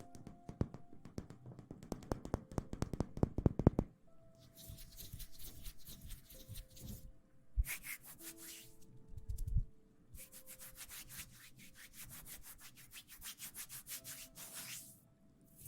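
Close-miked ASMR scratching and rubbing. A fast, dense scratching runs for about four seconds, then gives way to a series of softer rustling strokes, each a second or two long.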